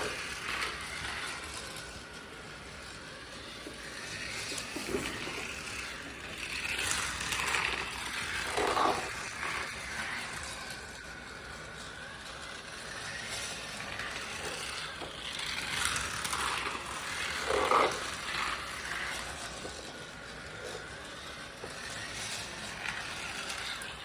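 Toy race car running along a plastic race track, rattling and scraping, with a few louder swells as it passes.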